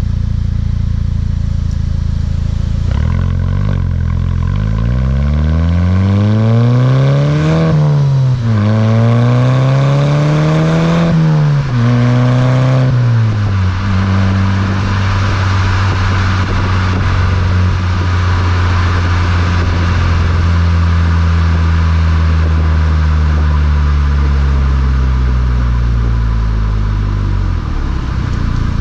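Volkswagen Mk6 GTI's turbocharged 2.0-litre four-cylinder through an aftermarket Beluga exhaust, accelerating hard through the gears. The engine note climbs in pitch and drops at three upshifts, then settles into a steady cruise for the second half.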